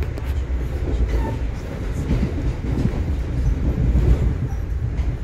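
Train rolling past: a steady low rumble of wheels and cars on the rails, with a few faint clicks.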